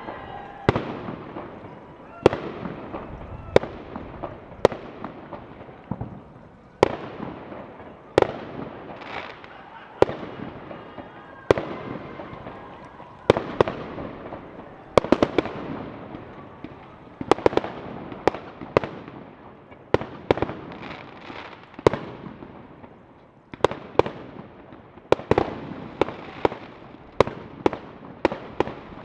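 Fireworks going off in a steady run of sharp, echoing bangs, one every second or two, with crackle between them. The bangs come faster and closer together near the end.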